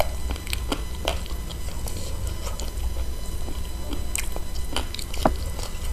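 Close-up chewing of spicy chicken feet: wet smacking and sucking mouth noises with many short, sharp clicks, the sharpest about five seconds in.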